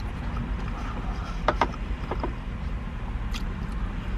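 Soft clicks and mouth smacks of someone chewing a mouthful of burger, a few of them about a second and a half and two seconds in, over a steady low rumble.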